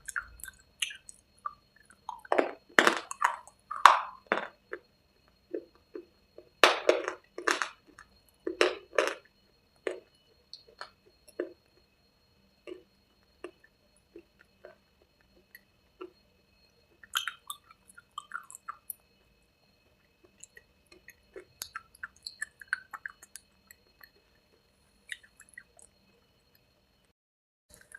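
A person biting and crunching hard, brittle cubes close to the microphone, with loud crackly bites in two clusters, about two seconds in and again around seven seconds, then slower, softer chewing with scattered small crunches.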